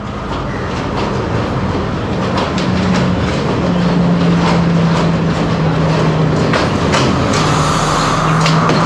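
Diesel train running on the rails: a steady low engine hum under a stream of sharp wheel clicks, growing louder, with a higher steady tone joining near the end.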